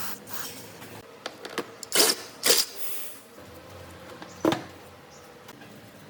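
A few sharp knocks, the loudest three about two, two and a half and four and a half seconds in, with smaller ticks between them.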